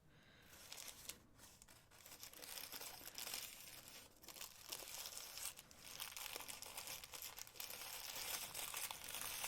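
Packaging crinkling and rustling as wrapped jewelry clasps are handled and unwrapped: a continuous crackle of many small clicks that starts about half a second in and grows a little louder.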